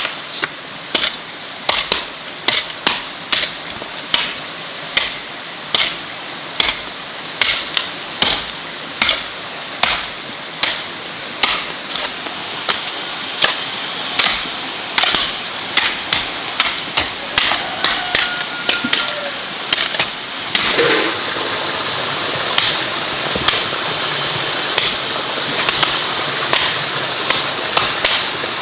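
Repeated sharp knocks, like a hand tool striking, coming about one to two times a second over a steady hiss; from about halfway on the knocks come a little less often.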